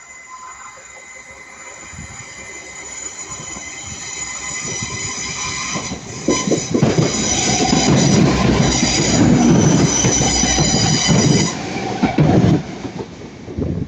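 A train approaches and passes close by, its wheels squealing in several high, steady tones over the rumble of wheels on the rails. The sound builds over the first six seconds and is loudest from about six to twelve seconds in. The squeal cuts off abruptly near the end.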